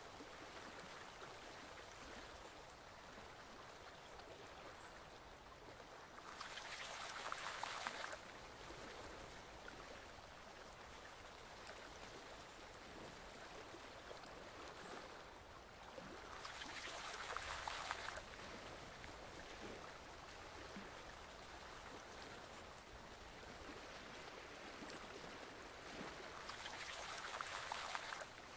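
Flowing stream water, a steady rushing that swells louder three times, about every ten seconds, each swell lasting about two seconds and stopping suddenly.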